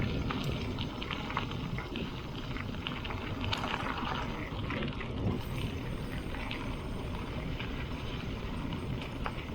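Bicycle tyres rolling over a gravel road, with scattered small crackles and pops of stones under the tyres and a steady rumble of wind on the bike-mounted camera's microphone.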